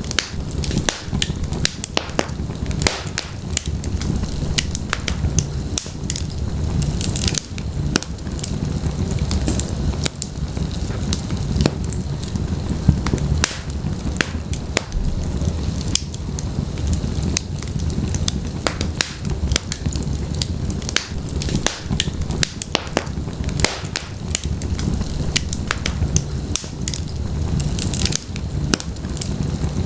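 Wood logs burning in a fireplace: frequent sharp, irregular crackles and pops over a steady low rumble of the flames.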